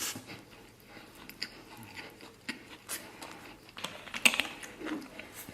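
A person chewing and biting food close to the microphone: wet mouth clicks and crunches, with a brief cluster of louder bites about four seconds in.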